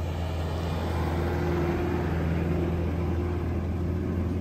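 Off-road SUV engine running at low, steady revs as the vehicle crawls slowly up a dirt slope, a hum that holds one pitch throughout.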